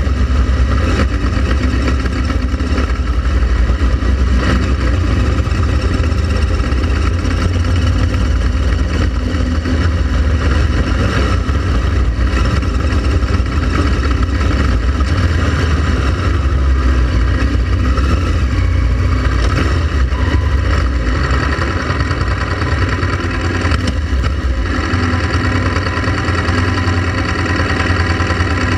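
Honda Transalp XL700V's V-twin engine running steadily, with a change in its sound near the end.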